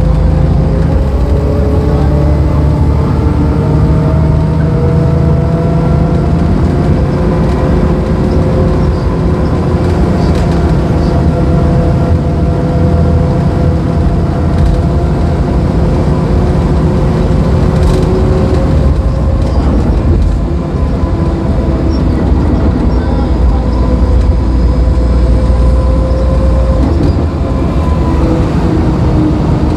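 Mercedes-Benz O-500UA articulated bus's six-cylinder diesel engine running, a continuous drone that slowly rises and falls in pitch with engine speed. It dips briefly in level about twenty seconds in.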